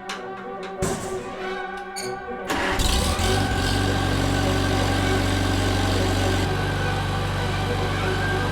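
Violin background music, then about two and a half seconds in an old tractor's carbureted gasoline engine starts and settles into a steady idle, its fuel bowl freshly cleaned and the carburetor just bled of air.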